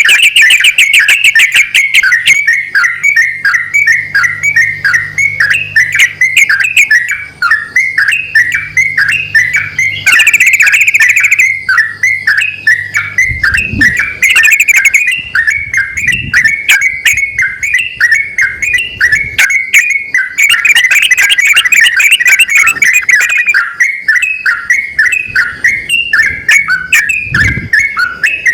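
Yellow-vented bulbuls, male and female, calling back and forth in a continuous rapid run of short, bubbly chirping notes, several a second.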